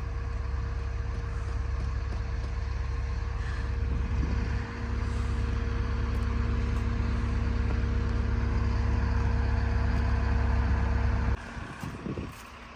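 A vehicle engine idling steadily with a low rumble and a faint steady hum. It cuts off abruptly about eleven seconds in.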